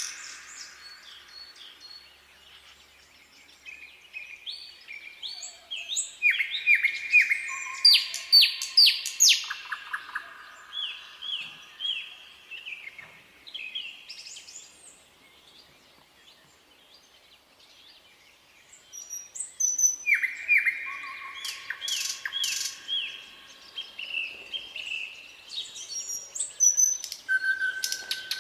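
Nightingale singing: two long phrases of repeated whistled notes, rapid trills and sharp clicking notes, with a quieter pause of several seconds between them.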